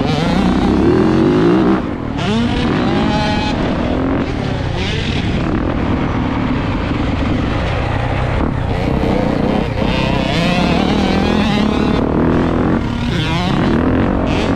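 Dirt bike engine revving up and down repeatedly as it is ridden around a motocross track, the pitch rising and falling with each burst of throttle and a short drop off the throttle about two seconds in.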